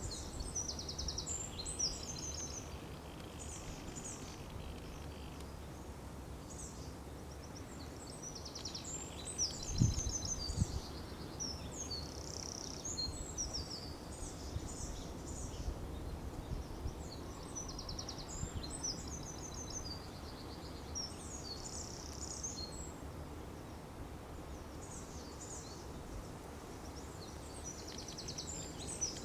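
Wild songbirds singing outdoors in short phrases of high chirps and quick trills, over a steady low wind rumble. There is a brief low bump about a third of the way through.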